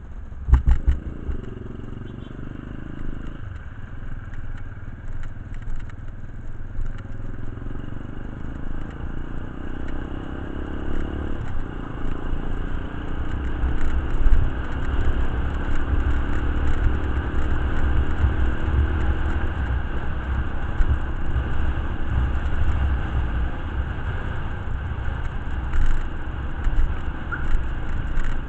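Motorcycle engine running, its pitch creeping up slowly, under an uneven low rumble of wind on the microphone.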